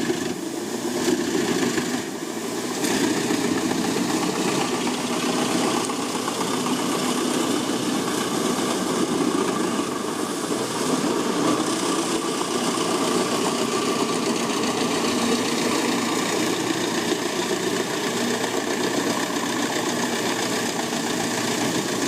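Large mobile drum wood chipper running steadily under load: the engine drones while logs are shredded, with a few faint knocks in the first seconds.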